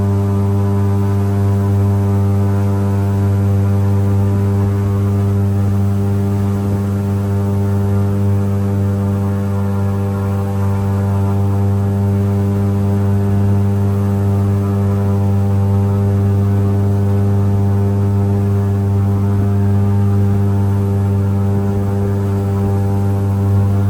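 Airboat's engine and air propeller running at a steady cruising speed, a loud, unchanging deep tone.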